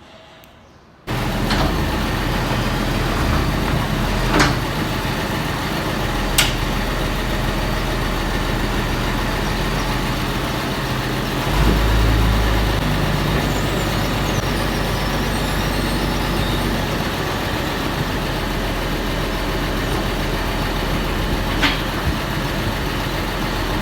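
Tractor engine running steadily, its low hum shifting now and then. A few sharp clicks or knocks sound over it.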